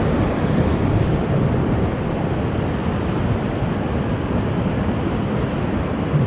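Ocoee River whitewater rushing steadily around a raft, a continuous loud wash with wind buffeting the microphone.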